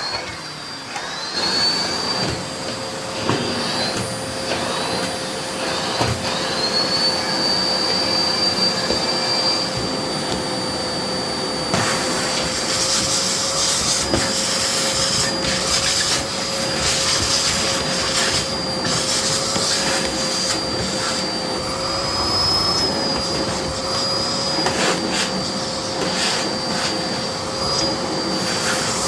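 Miele Blizzard CX1 bagless cylinder vacuum cleaner running with a steady high whine over the rush of suction, its pitch sweeping up several times in the first few seconds before holding steady.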